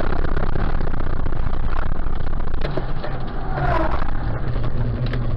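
Loud, steady road noise of a moving car, a low rumble under a rushing noise, with scattered clicks and scrapes.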